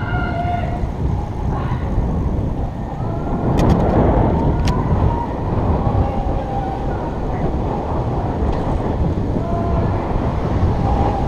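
Wind buffeting a GoPro's microphone during a bicycle ride: a steady low rumble, with faint distant shouts and a few sharp clicks about four seconds in.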